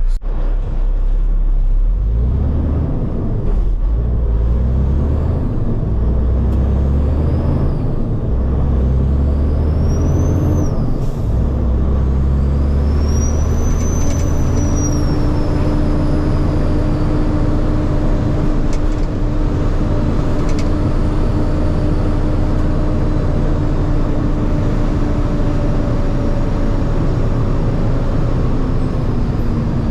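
Caterpillar diesel of a 2003 Kenworth T800 dump truck pulling through the gears. Its note breaks and climbs again several times in the first dozen seconds, then it settles into a steady cruise. A high whistle rises and falls around the middle.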